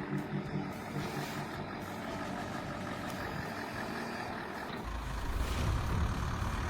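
Motor vehicle or machine engine running steadily. About five seconds in, the sound changes abruptly to a heavier, deeper engine hum.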